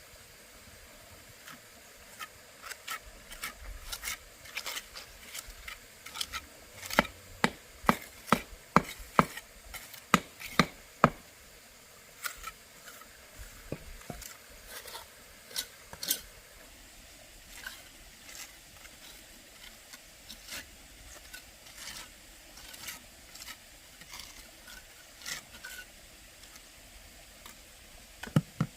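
A series of sharp knocks and taps, with a run of hard strikes at about two a second near a quarter of the way in, then lighter, scattered taps.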